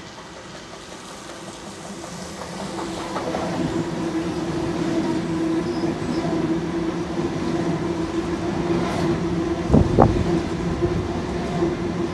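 Double-deck electric passenger train running past along the platform. Its rumble and steady hum grow louder as it comes out of the tunnel and then hold as the carriages go by, with a couple of loud wheel clacks about ten seconds in.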